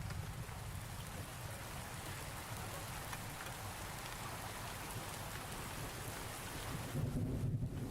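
Steady rain falling on surfaces, from a thunderstorm ambience recording, with a low rumble swelling near the end.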